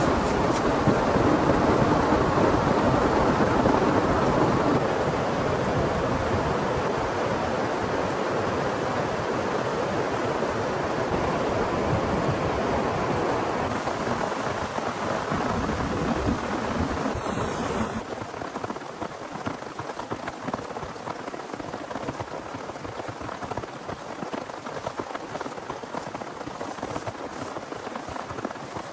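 Heavy rain pouring steadily. About two thirds of the way through, it drops abruptly to a quieter, thinner patter.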